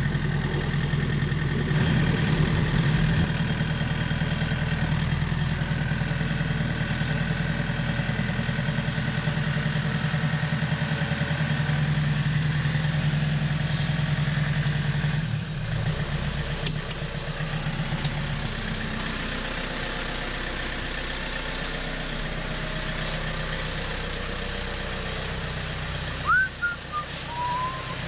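Old John Deere tractor engine running steadily with an even hum. About halfway through the sound changes and settles a little quieter, and a brief high chirp comes near the end.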